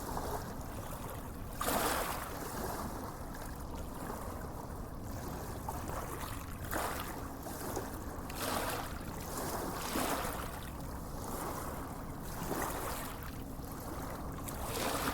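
Small waves lapping and washing, a steady water hiss with irregular surges every few seconds.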